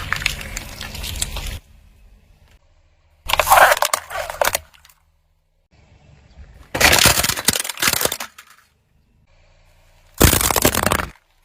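Brittle objects cracking and crunching under a car's tyre, four separate times, each crunch lasting about a second and ending abruptly.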